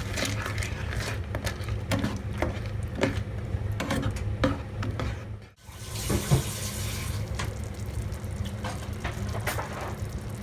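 Kitchen cooking sounds: scattered clinks and knocks of utensils over a steady low hum, cutting out briefly about five and a half seconds in, then a short burst of hiss.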